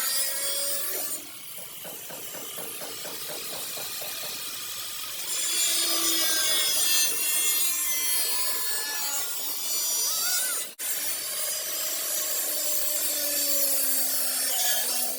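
Abrasive tool work on car body sheet metal: a steady, loud rasping and scraping noise with shifting whining tones over it, broken off sharply once about eleven seconds in.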